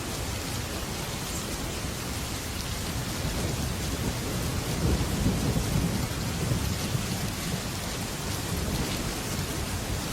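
Heavy rain falling steadily on a metal roof, with a low rumble of thunder that swells about halfway through.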